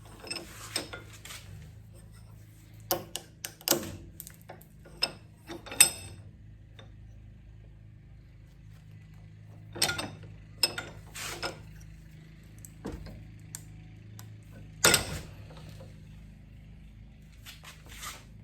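Scattered sharp clicks and cracks of hand tools working on a burnt spark plug boot, breaking it apart to get at its arced resistor, with the loudest snaps about six and fifteen seconds in. A steady low hum runs underneath.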